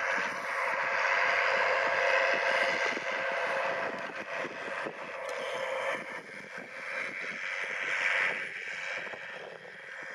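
New Holland T7060 tractor's six-cylinder diesel engine working steadily under load while pulling a six-furrow Kverneland PG 100 plough. The sound fades over the second half.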